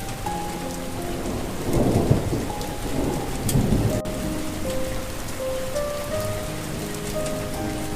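Steady rain with rolls of thunder, the loudest rumbles about two seconds in and again a moment later, under a slow, soft melody of held notes.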